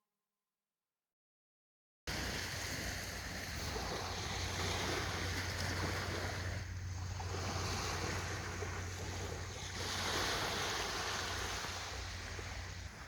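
After about two seconds of silence, sea waves wash onto the beach in swells that rise and ease every few seconds, with wind rumbling on the microphone.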